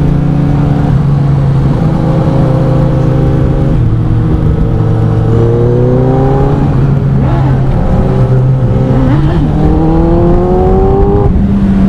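Motorcycle engines running loudly, with the pitch rising twice as an engine revs up, about five seconds in and again about nine seconds in.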